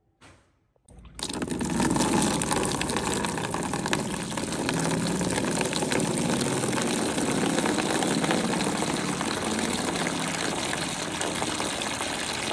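Steady rush of water pouring or churning, starting suddenly about a second in and running on without a break.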